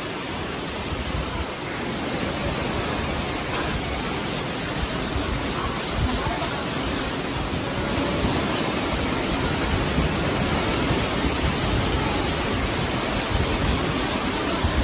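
Heavy wind-driven tropical-storm rain pouring down, a steady rush of noise that grows a little louder about two seconds in.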